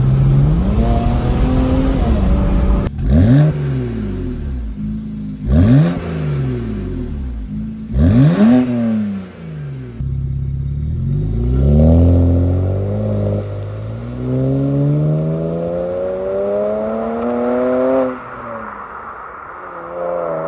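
BMW N54 3.0-litre twin-turbo inline-six, breathing through aftermarket downpipes, revving hard through the gears. There are three quick rev spikes in the first half, then a long climb in pitch under acceleration that drops suddenly near the end, followed by one more short rise.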